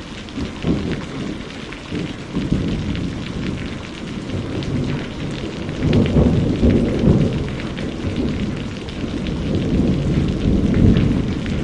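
Steady rain, with the fine patter of many drops, under a deep rolling rumble of thunder that swells about six seconds in and again near the end.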